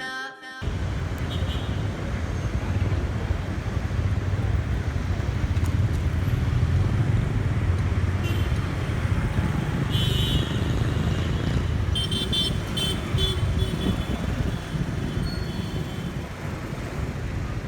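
City street traffic: a steady low engine rumble and road noise, broken by several short horn toots about 1 s, 10 s and 12–13 s in.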